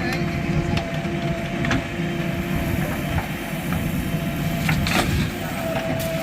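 JCB 3DX backhoe loader's diesel engine running steadily with a faint steady whine, broken by several sharp clanks.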